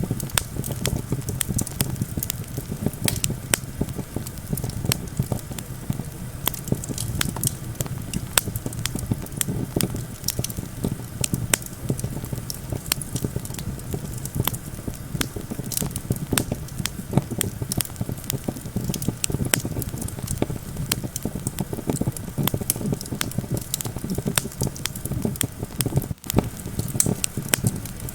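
Campfire crackling and popping, with many sharp irregular snaps over a steady low rumble of wind.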